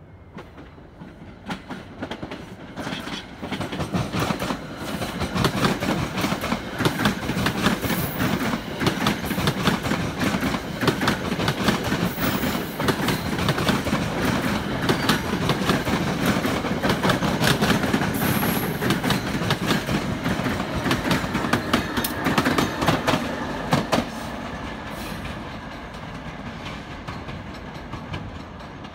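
A train passing at speed, its wheels clicking rapidly over rail joints. It builds from about a second in, is loudest through the middle, and fades over the last few seconds.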